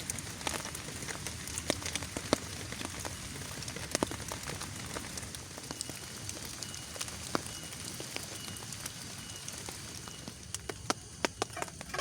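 Rain falling steadily, with many sharp, scattered drop impacts over a constant hiss.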